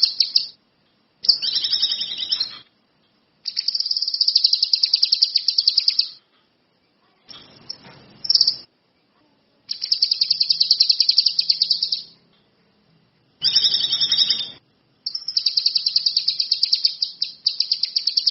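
Kinoi songbird singing: fast, high-pitched trilled phrases of one to two and a half seconds, about six in a row, each broken off by a short pause.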